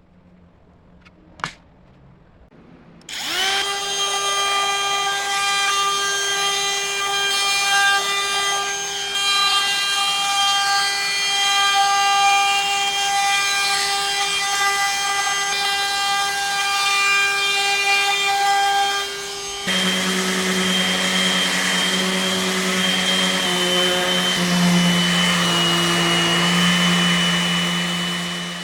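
An electric power tool starts about three seconds in, winding up to a steady whine. About two-thirds of the way through, its tone shifts to a lower, slightly wavering hum. It fades out at the end. A single sharp click comes shortly before the tool starts.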